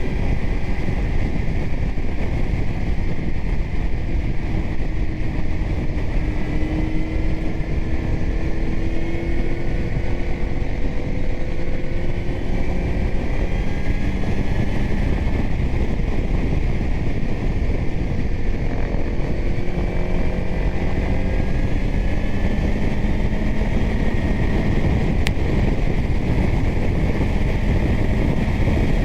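Kawasaki Z900's inline-four engine through a titanium Arrow exhaust, running on the move with its pitch slowly rising and falling with speed. Heavy wind rush on the microphone.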